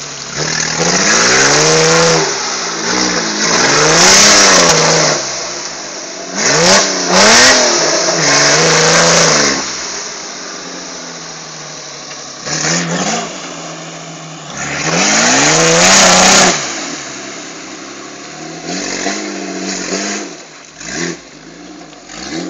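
Off-road 4x4's engine revving hard under load in about six bursts, its pitch climbing and falling each time, as the vehicle claws up a muddy bank and through water.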